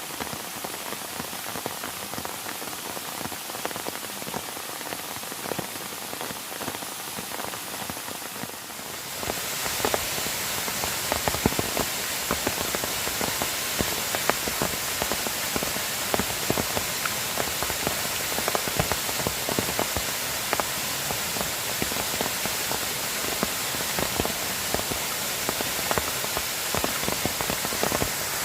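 Heavy rain falling, with many individual drops ticking sharply against something close by. The rain grows louder about nine seconds in.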